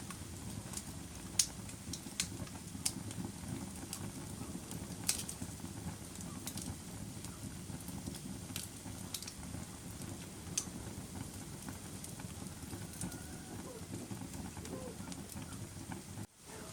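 Wood fire burning in a fireplace: a steady low rumble of flames with scattered sharp crackles and pops. The sound cuts out for a moment near the end.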